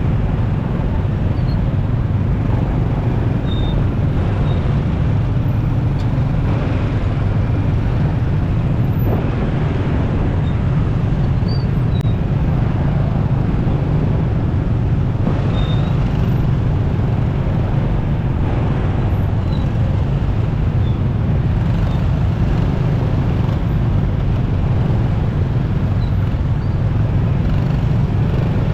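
Steady rumble of a motorcycle ride in traffic: wind and road noise on the microphone over the bike's engine, unbroken and even throughout.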